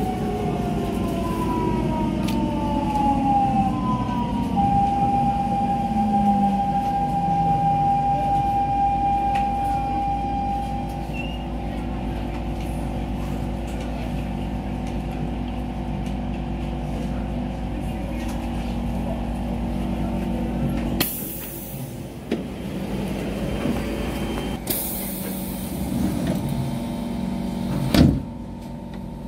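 Siemens C651 train's GTO-thyristor traction inverter whining down in pitch as the train brakes to a stop, settling to a steady tone that cuts off about ten seconds in. The stopped train then hums steadily, with sudden bursts of air hiss about 21 and 25 seconds in and a sharp knock near the end.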